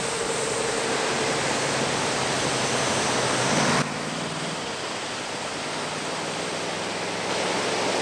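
Heavy typhoon surf breaking on a beach: a dense, continuous rush of water that swells for the first few seconds, then drops off suddenly a little before halfway.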